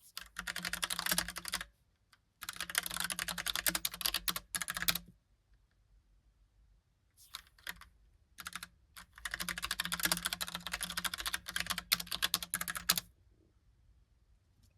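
Typing on a Logicool (Logitech) Pop Keys mechanical keyboard with round typewriter-style keycaps: three fast runs of key clacks separated by pauses, with a few single keystrokes before the last run.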